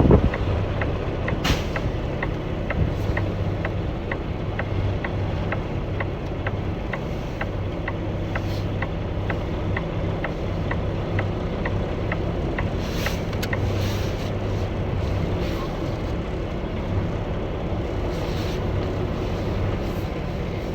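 Semi-truck diesel engine running at low speed while backing a trailer, with a fast, even ticking and a few short hisses.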